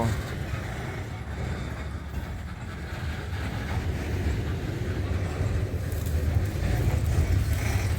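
Diesel switcher locomotive shoving a cut of freight cars backward at low speed: a steady low rumble of engine and rolling cars that grows slightly louder.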